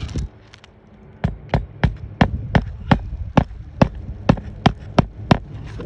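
A quick, even series of about a dozen sharp knocks, roughly three a second, over a low hum.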